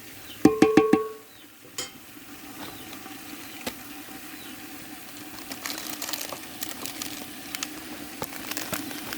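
A metal utensil knocks against a cooking pot a few times with a ringing clang, then the pot sizzles steadily with scattered crackles as the curry fries.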